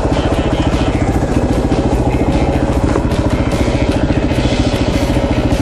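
Yamaha Serow 250's air-cooled single-cylinder four-stroke engine running steadily with an even pulse, no revving up or down.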